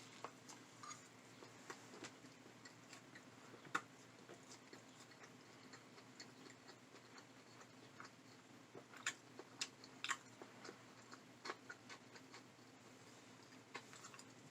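Faint chewing of a burger with the mouth open: scattered soft wet clicks and smacks, a few louder than the rest, over near silence.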